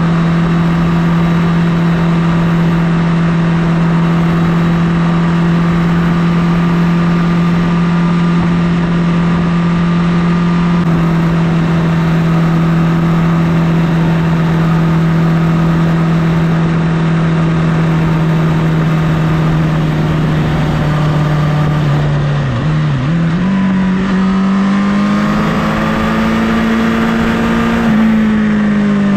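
Honda CBR1000RR inline-four engine running at a steady engine speed, its note holding for most of the stretch. About three-quarters of the way through the pitch dips briefly, then climbs steadily as the throttle is rolled on, and drops abruptly near the end as it shifts up a gear.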